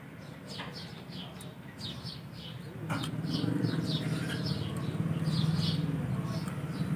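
A small bird chirping over and over, two or three short chirps a second. A low, steady engine hum comes in about three seconds in and stays.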